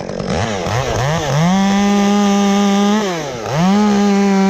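Two-stroke chainsaw revved in a few quick blips, then held at full throttle twice, with a brief drop in revs between the two.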